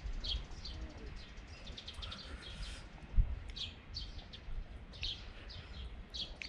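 Songbirds chirping and singing, many short high notes repeating throughout over a low rumble. A single dull thump, the loudest sound, comes about three seconds in.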